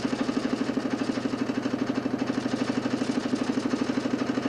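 DC motor spinning a large plywood Nipkow disc in a homemade mechanical TV: a steady running hum with a fast even throb, about twelve pulses a second.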